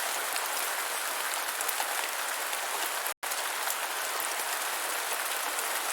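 Steady hiss of falling rain, broken by a split-second dropout to silence about three seconds in.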